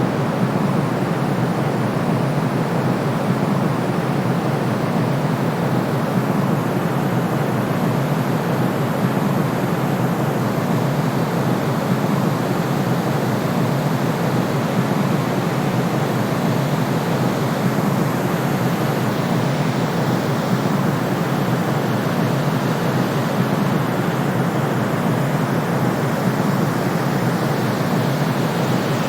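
Steady, unchanging white-noise track for soothing a colicky baby: an even shushing hiss weighted toward the lower range, with no tones or rhythm.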